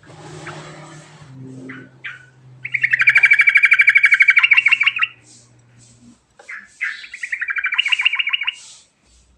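Sooty-headed bulbul (trucukan) singing: short scattered notes, then two long, fast, rattling trills, the first about two and a half seconds long and the second about two seconds. A faint low hum runs underneath for the first six seconds.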